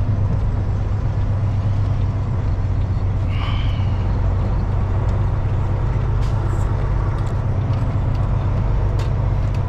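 Kenworth W900L semi truck's diesel engine and road noise heard from inside the cab, a steady low drone while driving. A short high chirp comes about three and a half seconds in.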